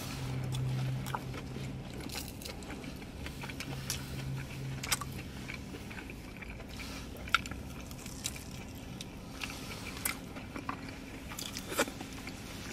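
Close-up eating sounds: chewing and biting into fish tacos, with scattered sharp crunches and mouth clicks.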